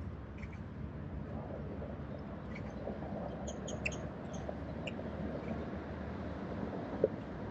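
Steady low outdoor background rumble with a few short, high, squeaky chirps of small birds through the middle, and one sharp click near the end.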